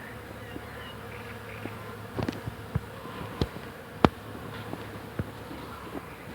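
Bees humming steadily as they work flowering hawthorn, a continuous low drone. Several sharp clicks sound over it, the loudest about four seconds in.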